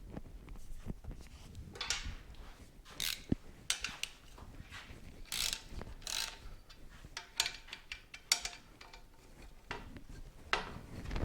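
Metal hand tools clicking and scraping on motorcycle parts in irregular short bursts, with runs of ratchet-like clicking, as the bike is taken apart.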